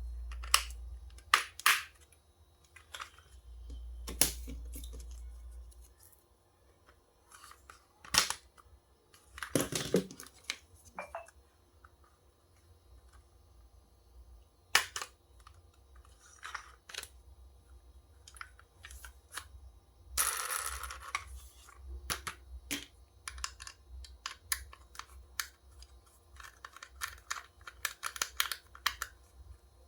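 Handling noises: scattered clicks, taps and rustles, with a short stretch of rustling about twenty seconds in. A low hum comes in twice during the first six seconds.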